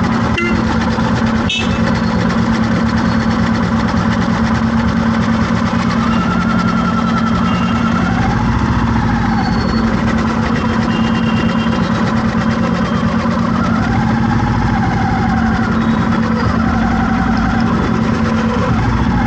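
Vehicle engine running steadily in traffic, a continuous hum. Twice a wavering higher tone rises over it for about two seconds, about a third of the way in and again about three quarters of the way in.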